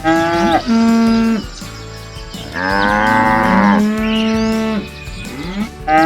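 Cattle mooing: several long, loud moos one after another, the last starting near the end.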